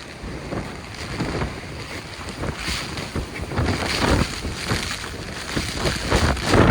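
Storm-force wind buffeting the microphone in irregular gusts, heavy with low rumble, over the sound of a rough sea.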